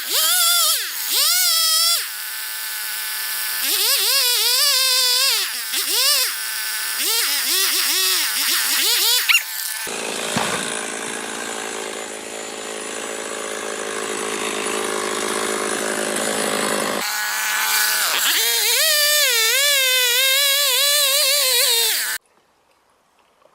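Chainsaw revving and cutting wood, its pitch climbing and sagging repeatedly as the cut loads it, heard across several spliced clips. For several seconds in the middle a steadier, lower engine sound takes over. The sound stops abruptly about a second before the end.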